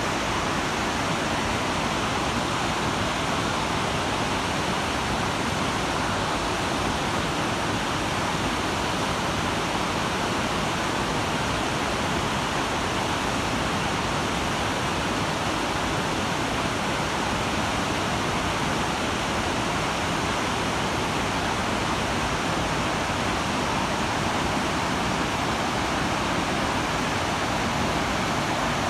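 Waterfall pouring, a constant, even rush of falling water with no breaks or changes in level.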